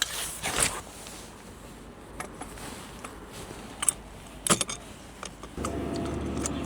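Light metallic clinks and rattles from the aluminium roof rack crossbar and its base feet being handled, with two sharper clicks about four seconds in. A steady hum starts suddenly near the end.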